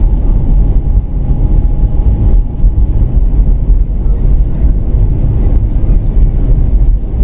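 Airbus A320 landing heard from inside the cabin: a loud, steady low rumble of engine and airframe noise.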